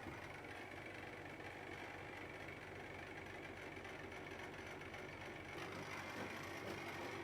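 Old electric motor running steadily on its first test run, turning a pulley: a continuous hum and whir, with a slight change in tone about five and a half seconds in.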